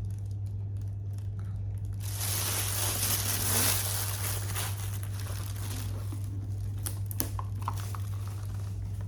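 Packaging crinkling and tearing as it is pulled off a boxed coffee machine, loudest for a couple of seconds starting about two seconds in, then dropping to a few light rustles and clicks. A steady low hum runs underneath.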